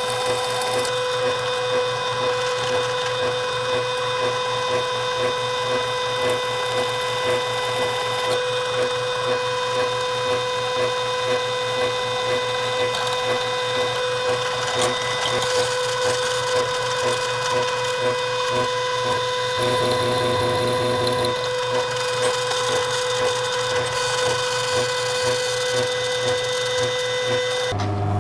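Electric drill running with a steady high whine, drilling out the spot welds that hold a steel gearbox bracket to a piece of car chassis. It stops abruptly near the end.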